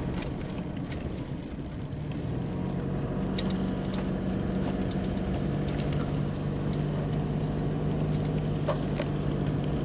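A vehicle running: a steady low rumble with a low hum that shifts pitch a couple of times, and scattered light clicks.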